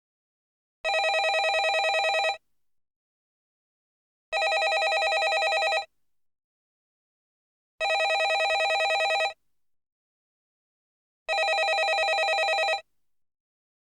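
Landline telephone ringing: four trilling rings of about a second and a half each, with about two seconds of silence between them.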